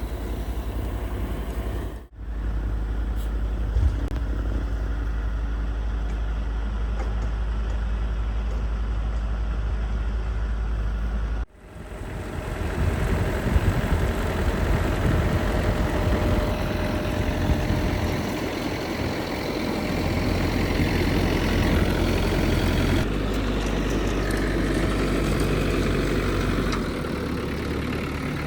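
Gasoline snowblower engine running steadily, broken twice by sudden short cuts, about two and eleven seconds in.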